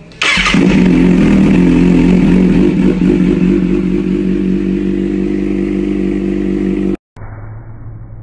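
Sport motorcycle engine running steadily through an Akrapovič aftermarket exhaust. It comes in abruptly just after the start and cuts off suddenly about seven seconds in, leaving a quieter low hum.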